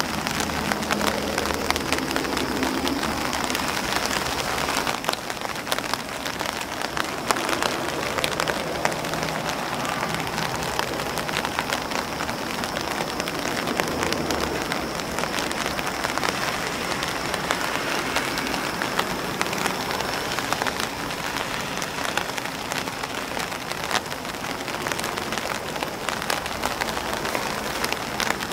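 Steady rain falling on an umbrella and on grass leaves: a dense, even patter with many sharp individual drop taps.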